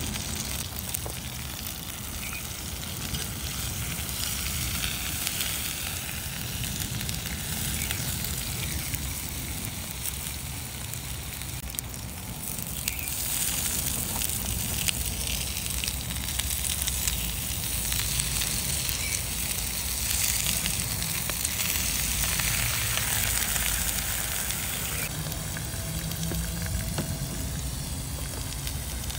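Fish and sliced pork sizzling on the griddle plate of a wood-burning camp stove, with the wood fire crackling in faint scattered clicks. The sizzle grows louder about 13 seconds in.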